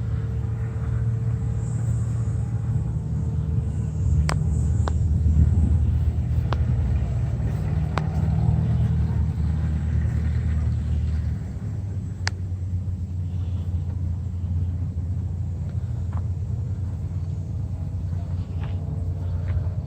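A large engine running with a deep, steady rumble that eases somewhat about halfway through. Scattered sharp clicks of phone-microphone crackle are heard over it.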